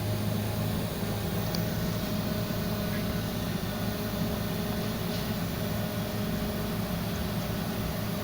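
Toyota 3S-FE 2.0-litre inline-four engine running steadily at a constant speed during a test run.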